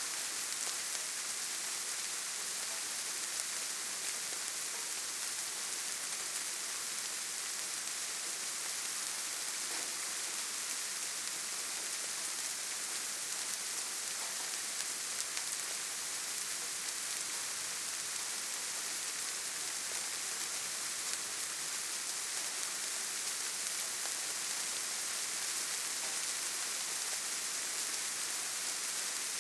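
Steady rainfall: an even hiss of rain with scattered drops pattering on surfaces.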